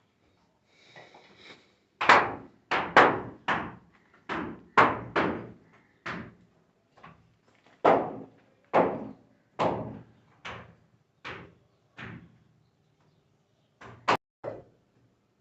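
Repeated heavy hammer blows on a building site, about fifteen strikes at an uneven pace of roughly one a second, each with a brief ringing tail, starting about two seconds in.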